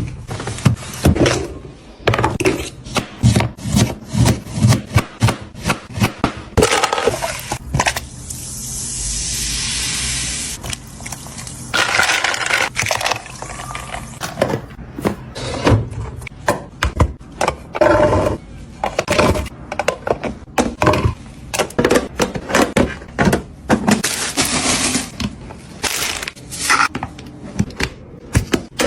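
Kitchen handling sounds while organizing a refrigerator: containers, lids and food packaging being set down, tapped, clicked and scraped in quick irregular knocks. Around a third of the way in, a steady hiss lasts a few seconds before the clatter resumes.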